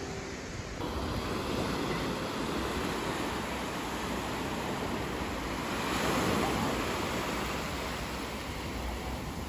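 Ocean surf washing onto a beach, a steady rushing noise that swells about six seconds in.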